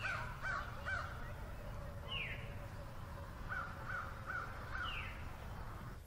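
Birds calling: two runs of short, harsh, evenly repeated calls, about two a second and four calls to a run, one at the start and one past the middle. Twice, a single higher call slides downward in pitch.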